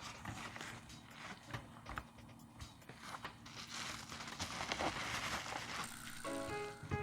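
Packaging of a boxed model airliner being handled: irregular crinkling and rustling with small clicks and taps. Music comes in near the end.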